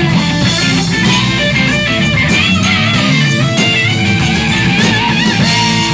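Live band music, an instrumental passage: electric guitar playing a lead line with bent, wavering notes over bass and drums.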